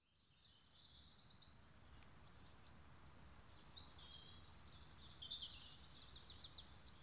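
Faint birdsong, high chirps and quick trills of repeated notes, over a steady low outdoor rumble. It fades in during the first second.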